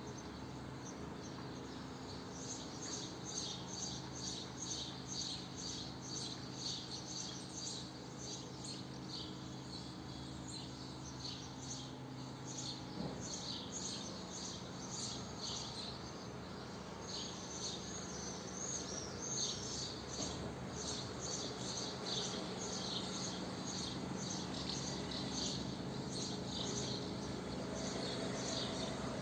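Swallows twittering: a steady stream of short, high chirps with a brief warbling run partway through. Underneath is a low steady hum that stops about halfway through and comes back near the end.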